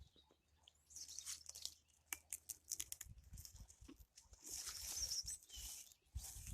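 Faint, irregular footsteps crunching on the ground, with scattered crackles and a longer scuffing scrape near the end.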